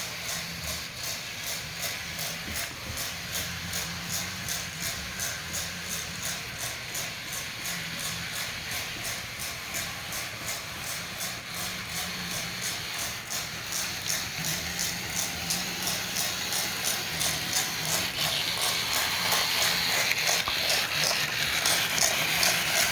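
Train running with a fast, even beat of about three strokes a second over a steady hiss, growing louder toward the end.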